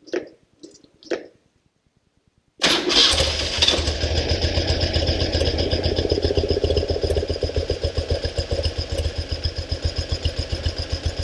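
A couple of short clunks, then about two and a half seconds in the 1974 BMW R90S's air-cooled flat-twin engine catches suddenly and settles into a fast, even idle while still cold.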